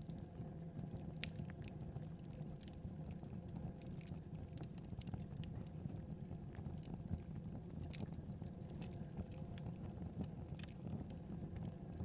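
Wood fire burning, a steady low rumble with irregular sharp crackles and pops from the burning logs.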